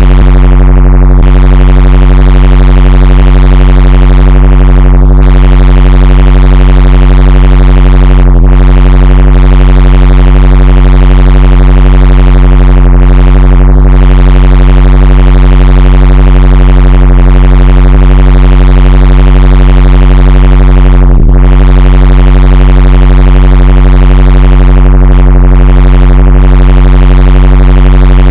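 A loud, steady, distorted low electronic drone: one held buzzing tone with many overtones, briefly dipping about eight seconds in and again near the end.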